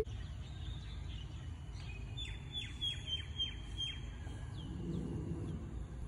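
A bird chirping: a quick run of about six short, high, falling chirps about two to four seconds in, then a few fainter ones, over a steady low outdoor rumble.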